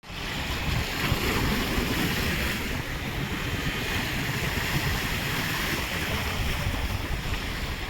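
Ocean surf washing ashore, a steady hiss of breaking waves, with wind buffeting the microphone in a low rumble.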